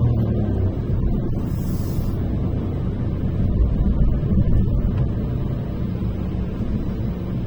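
Car driving, heard from inside the cabin: a steady low rumble of road and engine noise, with a brief hiss about a second and a half in.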